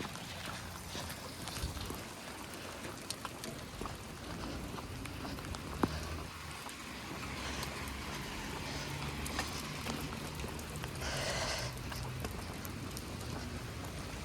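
Steady rain falling, with scattered ticks of drops and a sharp click about six seconds in. A low rumble runs through the middle and a brief hiss comes up around eleven seconds.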